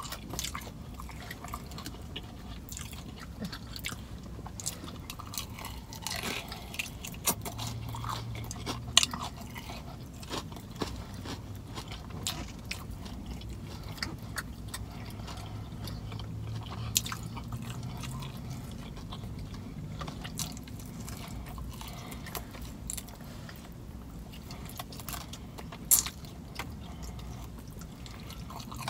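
A person chewing and biting fried chicken wings close to the microphone, with many scattered sharp mouth clicks and smacks over a low steady hum.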